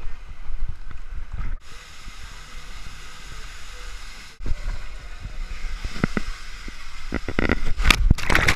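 Water-slide ride heard from the rider: rushing water and wind buffeting the microphone, cut off abruptly twice, with splashing growing louder near the end.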